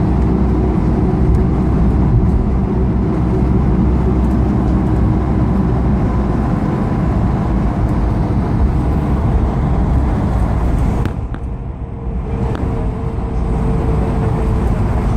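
Steady cabin noise of an Airbus A220-300 with its Pratt & Whitney geared turbofan engines: a deep engine and airflow rumble with a faint steady hum, dropping in level for a moment about eleven seconds in.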